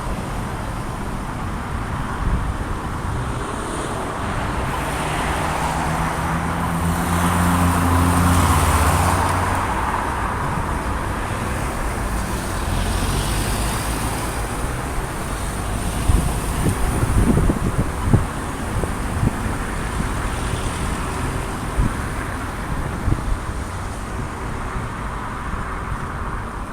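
Road traffic passing on a wide multi-lane road. About eight seconds in, one vehicle with a low engine note passes close by and is the loudest sound. A few scattered clicks come around the middle.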